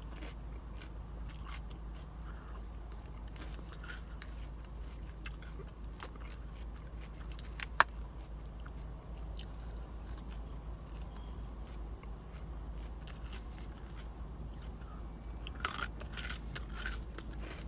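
Close-up chewing and crunching of a leafy salad, with scattered small ticks and crackles and a sharp click about eight seconds in. A low steady hum runs underneath.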